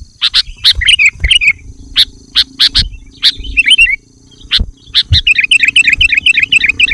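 Sooty-headed bulbuls calling: sharp, clipped notes and short chirping phrases, with a fast run of chattering notes from about five seconds in.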